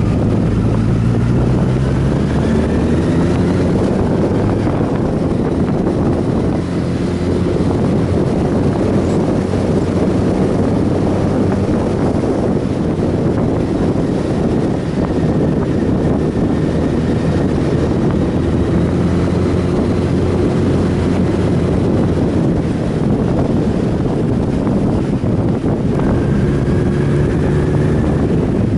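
Sportbike engine running under way, its pitch climbing in the first few seconds and again near the end as the rider opens the throttle, with wind buffeting the microphone.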